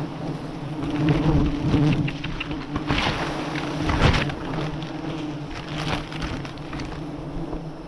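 A swarm of wild honeybees buzzing in a steady low hum around their nest, with rustling and a few dull knocks on top, the loudest about a second in and again about four seconds in.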